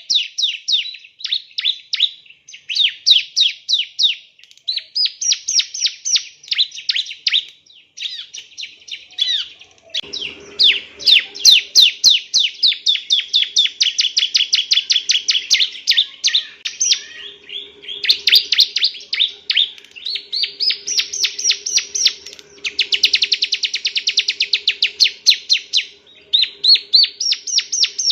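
Male bar-winged prinia (ciblek) singing: fast trilled phrases of quick, sharply falling notes, one phrase after another with short breaks. A faint low steady hum joins underneath about ten seconds in.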